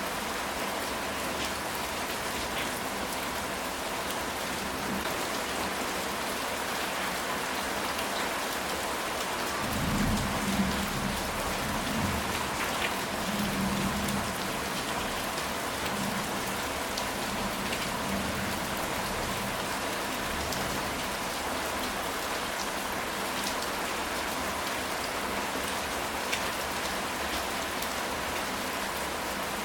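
Steady heavy rain falling on a ceramic tile roof. A low roll of thunder comes about ten seconds in and rumbles on for several seconds, fading in weaker swells.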